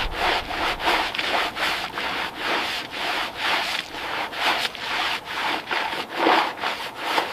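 Repeated back-and-forth rubbing strokes against a surface, in an even rhythm of about three a second.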